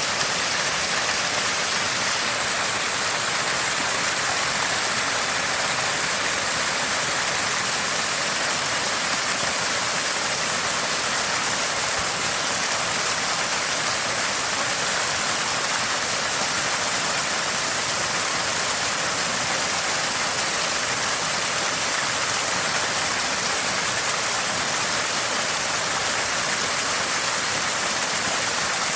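Water from a small spring gushing out and gurgling steadily, an unbroken rush of running water.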